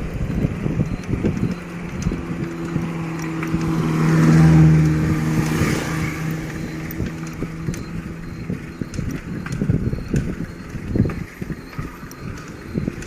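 A motor vehicle passing, its engine hum swelling to a peak about four to five seconds in and then fading, over uneven wind rumble on the microphone of a moving bicycle.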